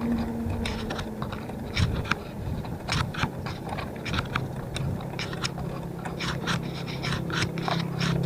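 Irregular sharp clicks and rattles, several a second, over a low rumble, as from a bike and its mounted camera jolting along while riding.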